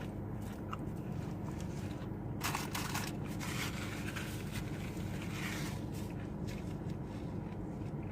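Close-up eating sounds: chewing and crunching on food, with crinkling and rustling of a paper wrapper, strongest in the middle, over a steady low hum.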